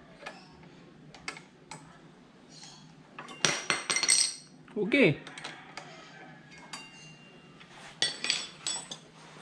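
Small metal parts clinking and clattering against each other in short bursts, with bright ringing taps: brake pads and tools being handled during a motorcycle front brake pad change. The loudest clusters come about three and a half seconds in and again around eight seconds in.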